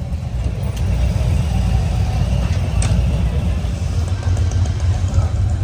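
Low, steady rumble of motor vehicle engines running close by.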